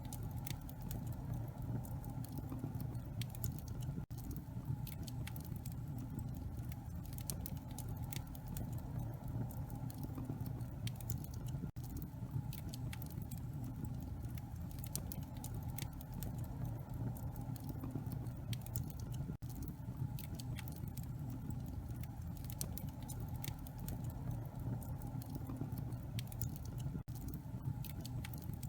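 Wood fire in a fireplace crackling, with irregular sharp snaps and pops over a steady low rumble. The sound drops out for an instant about every seven to eight seconds.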